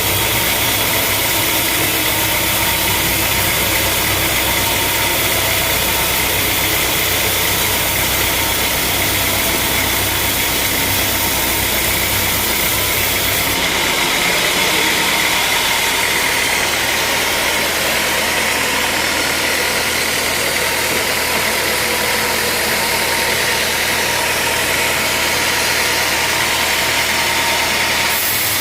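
Sawmill machinery running steadily with a constant engine-like hum. About halfway through, the sound changes abruptly and the deep low hum drops away.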